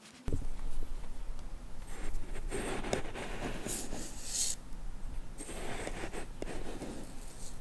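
Sugar in paper packets being handled and shaken, the granules rustling and hissing in uneven swells. It starts about a quarter second in. It is a foley stand-in for sugar spilling.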